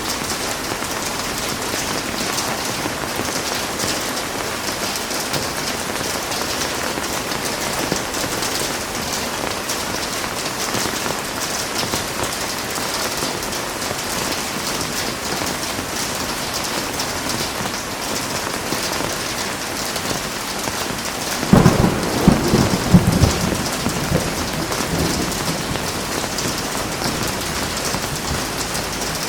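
Heavy rain falling steadily, with a sudden crack and rumble of thunder a little past two-thirds of the way through that dies away over a few seconds.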